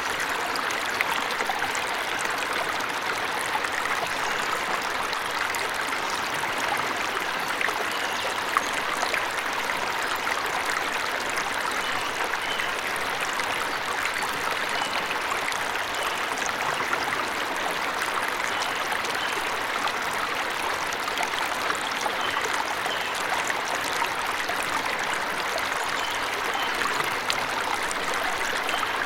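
A forest waterfall running steadily, a dense, even rush of splashing water, with a few faint short bird chirps above it.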